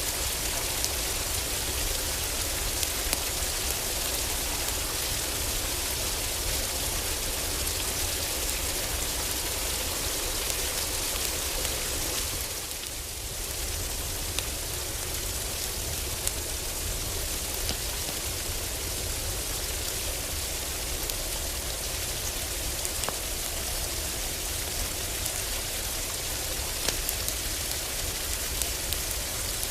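Heavy rain pattering steadily on a roof, a dense hiss with a low rumble beneath and scattered sharp ticks. It eases briefly about halfway through.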